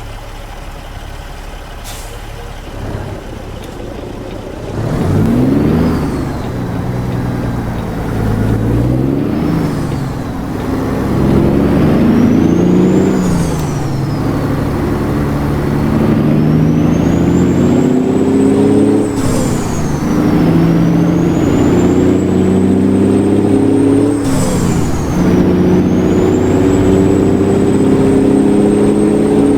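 Straight-piped Caterpillar C15 inline-six diesel in a Freightliner Classic XL semi truck, idling and then pulling away under load. It climbs in pitch through the gears, dropping at each of about five upshifts.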